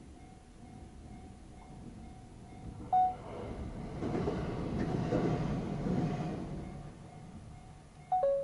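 A JR electric commuter train passes through a railway level crossing, its rumble and rush swelling and fading over about four seconds, while the crossing's warning bell rings faintly and steadily. Two short, loud tones sound, one about three seconds in and one falling in pitch near the end.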